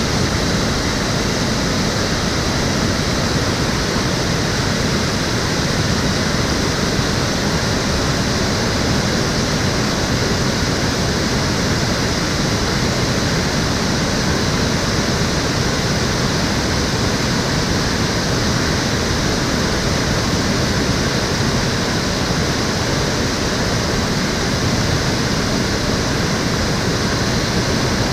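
Shallow urban stream water flowing and splashing steadily over rocks and weirs.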